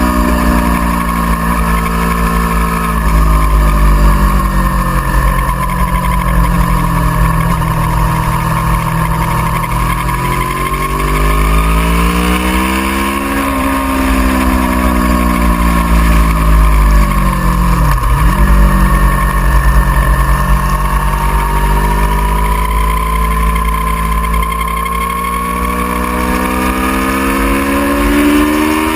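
Aprilia Tuono V4R's V4 engine running at speed, its pitch slowly sinking and climbing with the throttle, with a sharp dip and recovery about 18 seconds in. A steady low wind rumble sits underneath.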